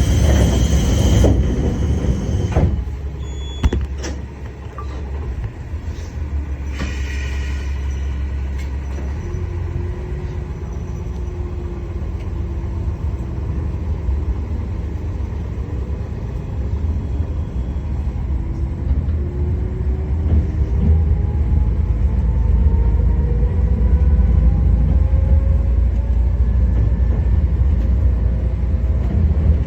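Tarumi Railway Haimo 295 diesel railcar running, a heavy low engine rumble with faint whining tones that rise slowly in pitch as it gathers speed. A few clicks and a brief high tone come in the first few seconds.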